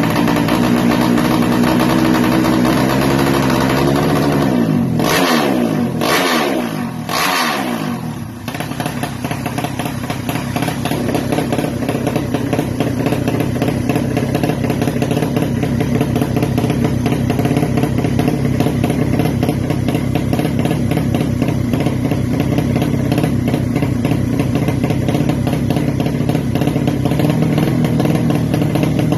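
Drag-bike motorcycle engine running through a JRM racing exhaust. It runs steadily, then about five seconds in is blipped sharply three times, each rev falling back, before it settles into steady running again.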